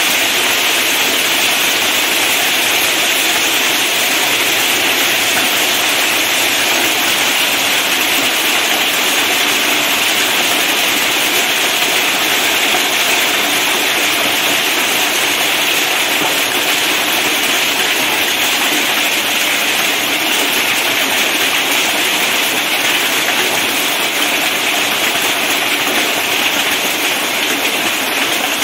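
Heavy rain mixed with hail pelting the ground, a loud, unbroken hiss.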